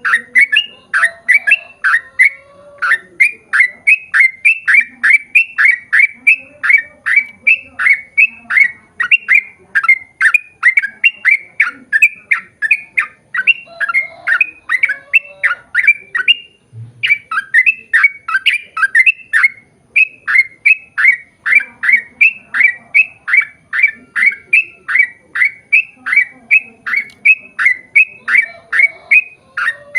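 Yellow-vented bulbul (trucukan) song: a long, rapid run of short, downward-sweeping chirping notes, about three a second, with one brief break about halfway through.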